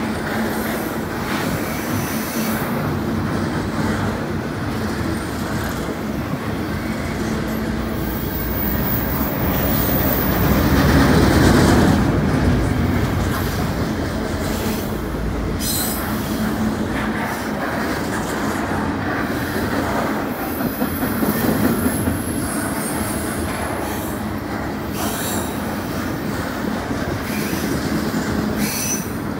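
Double-stack intermodal freight train rolling past: a steady rumble and clatter of steel wheels on rail. It swells about halfway through, with thin, high wheel squeals now and then.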